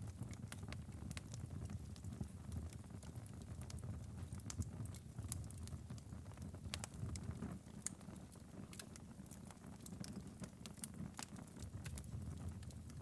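Wood fire crackling in a fireplace: frequent irregular pops and snaps over a low steady rumble of the flames.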